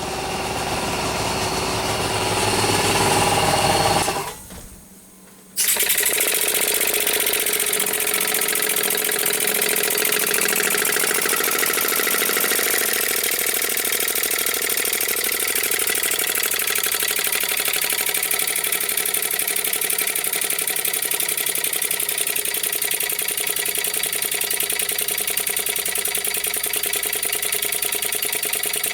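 Four-stroke petrol engine converted to run on compressed air, running at full throttle, its air exhaust puffing fast, growing louder over the first four seconds. The sound drops away for about a second, then a steady fast-running mechanical sound with a rapid even beat comes back in.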